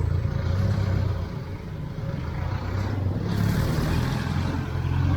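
Street traffic: a motor vehicle's engine running close by, a steady low hum. About three seconds in, a louder hiss joins it.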